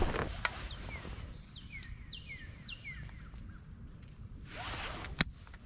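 A bird singing a run of about five quick, falling whistled notes. A sharp knock comes near the end.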